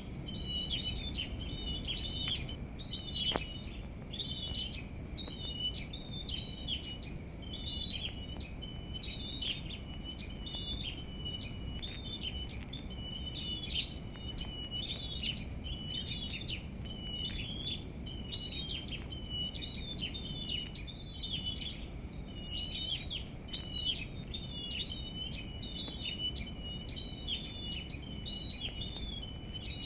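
Small songbirds chirping and twittering without pause in quick, high, short notes, over a steady low rumble of background noise. A single sharp click about three seconds in.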